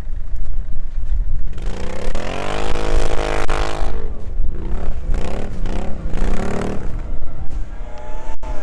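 A 4x4's engine revving in three surges, each rising and then falling in pitch, as it drives through deep snow, over a steady low rumble. The sound drops out briefly near the end.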